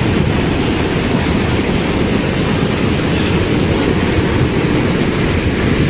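Floodwater rushing in a swollen stream, a loud, steady noise with most of its weight low down.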